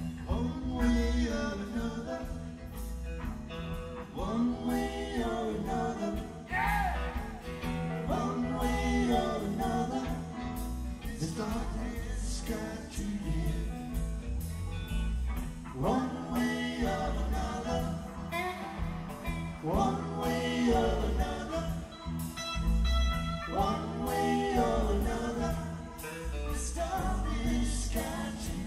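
A live blues-rock band playing, with bass and drums underneath a lead melody that bends in pitch.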